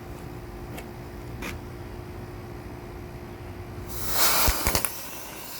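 A firework goes off about four seconds in: a sudden loud hiss of spraying sparks lasting over a second, with a few sharp cracks in it. Before that, only faint low background noise.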